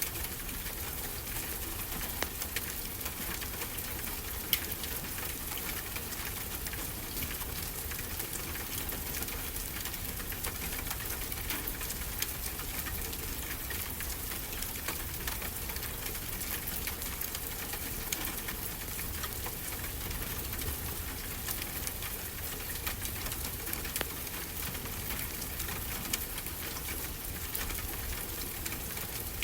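Wood fire crackling in a fireplace: a dense run of small crackles with an occasional sharper pop. Under it lies a steady low rush of ocean surf.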